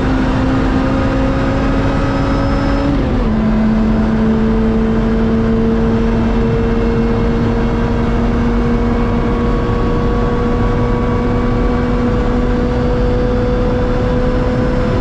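Lotus Exige S's supercharged 1.8-litre four-cylinder, with a Larini Group B exhaust, accelerating hard down a straight, heard from inside the cockpit. The engine note climbs steadily, drops sharply at an upshift about three seconds in, then climbs again, over steady wind and tyre noise at high speed.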